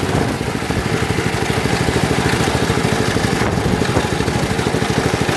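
Lawn tractor engine running with an even, rapid pulse. The owner says it makes a rubbing sound whenever it runs because its cooling fan has broken off inside and the engine spins it against the plastic.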